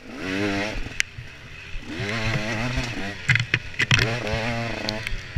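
Enduro motorcycle engine revving up and falling back in repeated surges as it is ridden hard along a dirt trail. A few sharp knocks come over it, the loudest a little before the end.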